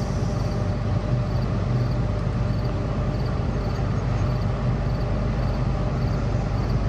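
Diesel locomotive of a CSX freight train running under power as it approaches, a steady rumble; by ear the engineer is in throttle notch 5 and not slowing for the crossing.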